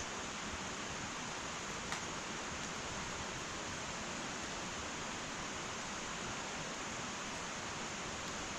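Wood fire burning in an irori hearth: an even, steady hiss with a few faint crackles, the clearest about two seconds in.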